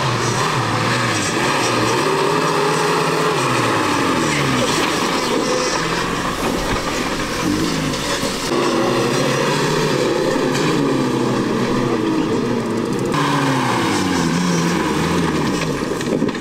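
Off-road 4x4 vehicle engine revving under load as it drives, its pitch climbing and falling back over and over.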